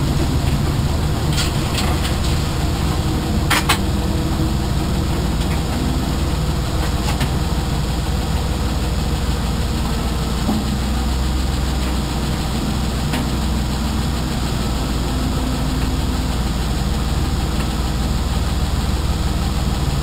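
Race car engine idling steadily, heard from inside the stripped cockpit, with a few brief knocks in the first several seconds.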